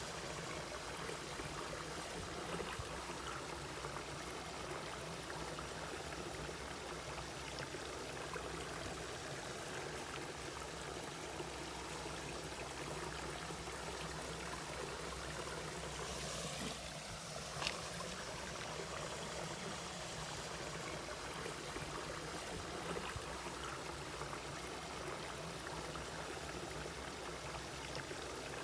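Mountain valley stream flowing steadily over rocks, a continuous even rush of water. About two-thirds of the way in there is a brief brighter swish and a single sharp tick.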